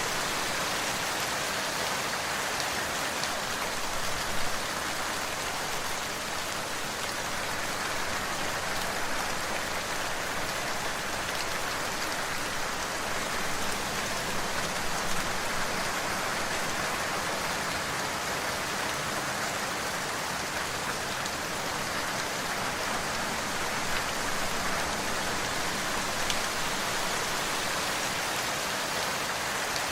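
Steady rainfall, an even hiss of rain on a surface with occasional individual drop ticks.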